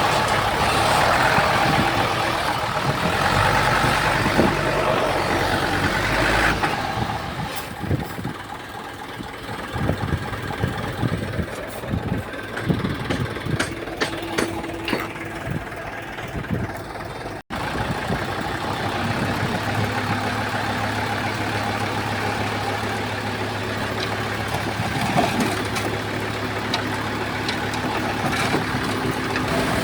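Diesel engine of a Komatsu D31P crawler bulldozer working. It is loud and heavy for the first several seconds, then runs lower with scattered clanks. After a momentary cut-out just past the middle, it settles into a steady low hum.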